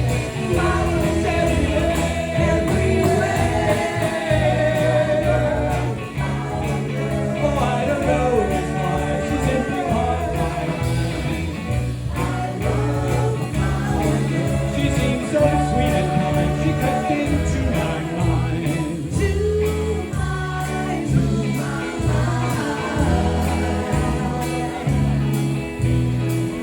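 Live band playing a pop song, with singing voices over a bass line.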